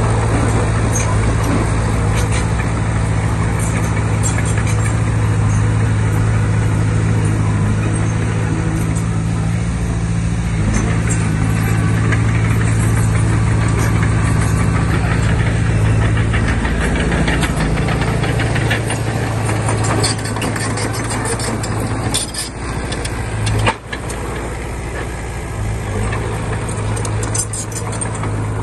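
Diesel engine of a small Komatsu D20P crawler bulldozer running steadily at work, a constant low drone; about twenty seconds in its note drops and turns more uneven.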